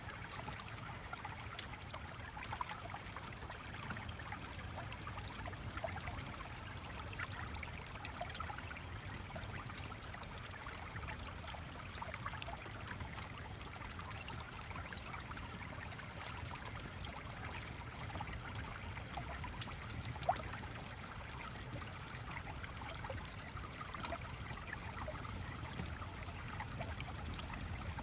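A small stream flowing and trickling steadily with a fine bubbling texture, with one brief louder pop about twenty seconds in.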